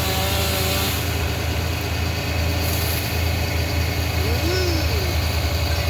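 Heavy engine idling steadily with a deep, even hum, the kind of machinery used on a tree-felling job.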